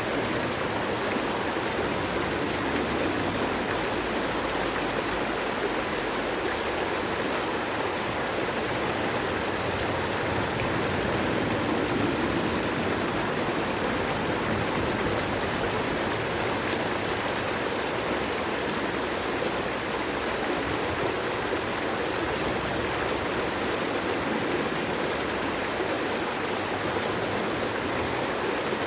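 Flowing water of a stream or small waterfall, a steady rushing with no change throughout.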